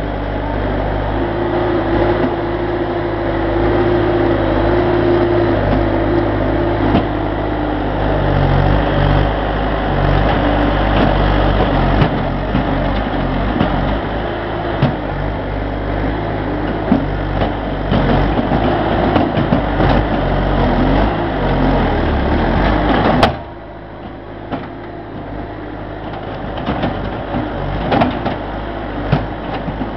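A heavy engine running steadily, with scattered knocks. A sharp click sounds about twenty-three seconds in, and the engine sound drops away sharply.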